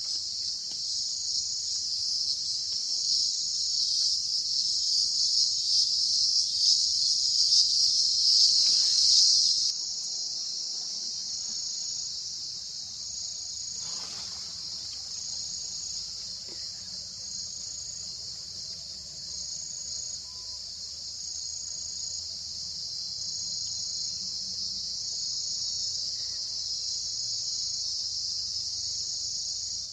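Insects chirring in a dense, steady high-pitched drone, with a higher note pulsing about every second and a half. It swells over the first ten seconds, then drops suddenly to a lower, even level.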